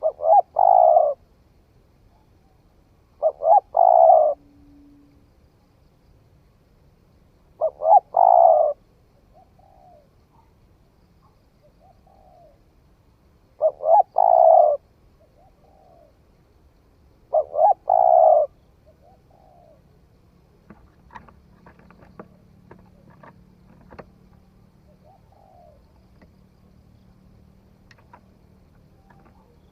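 Spotted dove cooing: five loud phrases a few seconds apart, each a couple of short notes run into a longer coo, with fainter short coos between them. Faint scattered clicks come in during the second half.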